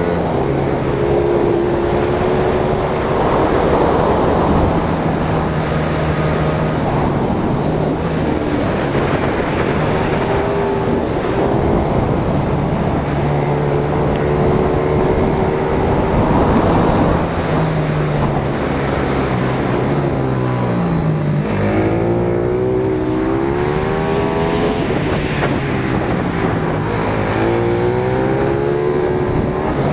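Pit bike's single-cylinder four-stroke engine heard on board, revving up and down as the rider accelerates, shifts and brakes around a kart track, over a constant rushing noise. The pitch climbs repeatedly, falls steeply about two-thirds of the way through, then climbs again.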